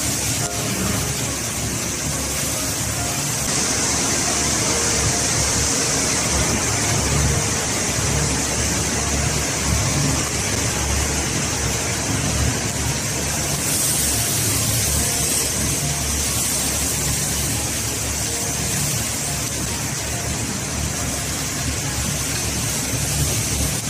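Steady roar of a restaurant wok stove's burner, with a hiss over it, while spicy chicken is stir-fried in the wok.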